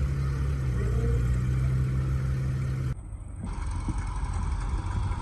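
An engine running steadily with a low hum. About three seconds in, the sound changes abruptly to a rougher engine sound.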